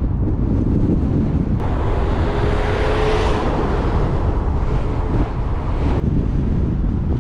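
Wind buffeting a GoPro Hero 8's microphone held out of a moving car's sunroof at about 50–60 km/h: a loud, steady low rumble of wind noise. From about one and a half to six seconds in, a brighter hiss joins, starting and stopping abruptly.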